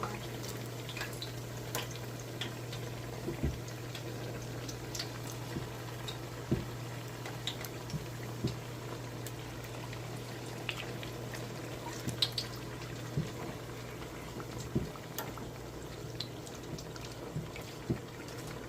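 Beignet dough deep-frying in hot oil: a steady sizzle with scattered pops and crackles.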